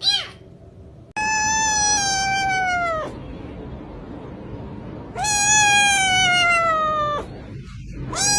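Domestic cat meowing: a short call, then two long, drawn-out meows of about two seconds each, each dropping in pitch at its end, and another starting right at the end.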